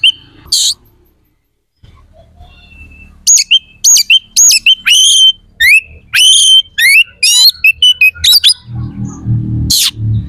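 Oriental magpie-robin (kacer) singing loudly in a fast run of varied whistled notes, with sharp up- and down-slurred phrases after a brief pause near the start. A low hum comes in underneath near the end.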